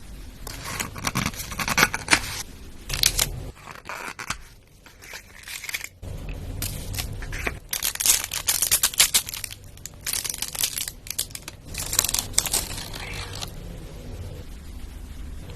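Close-miked eating-ASMR sounds: crisp crackling and crinkling in bursts of a second or more, with a short lull about four to six seconds in.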